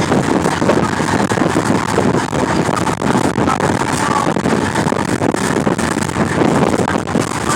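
Wind buffeting the microphone in a car: a loud, constant, rapidly fluttering rumble and rush.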